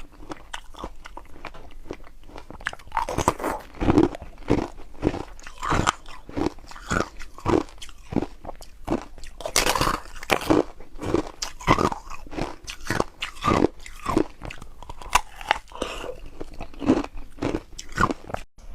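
Ice being bitten and chewed close to the microphone: a rapid, irregular run of loud crunches.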